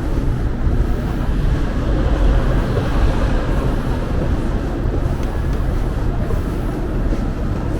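Wind buffeting the microphone: a loud, steady low rumble that keeps gusting up and down.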